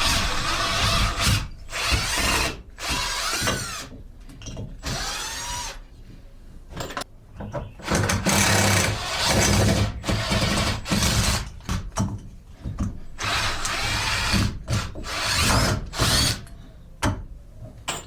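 Screw gun driving screws into wood in a series of short runs, about nine in all, each a second or so long, the motor pitch rising and falling as it starts and stops.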